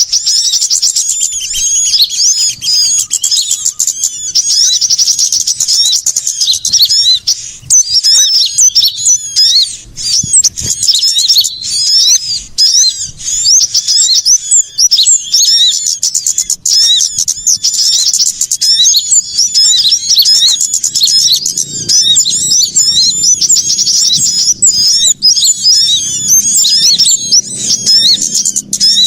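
Dense, noisy chorus of many small songbirds, rapid high-pitched chirps and twitters overlapping without pause. It is a bird-lure recording of small birds in a commotion.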